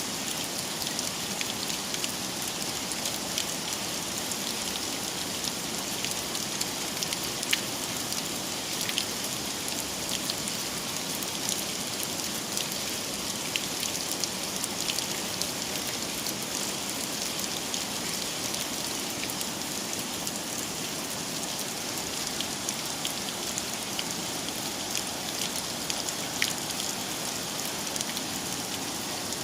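Heavy rain falling steadily, a dense even hiss with scattered louder drips and ticks of drops striking a surface.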